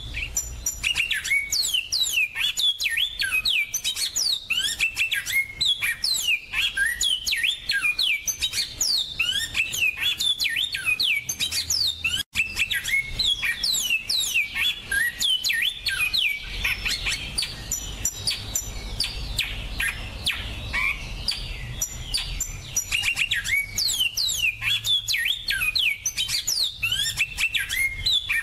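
Finches singing a fast, continuous song of high chirps, trills and sweeping notes, several voices overlapping.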